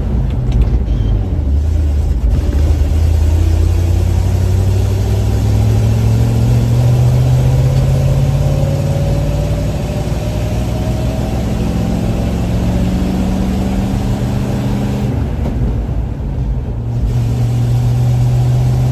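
1972 Chevrolet C50 dump truck's small-block 350 V8 pulling on the road, its pitch slowly rising for about fifteen seconds. About fifteen seconds in it eases off briefly, then pulls steadily again.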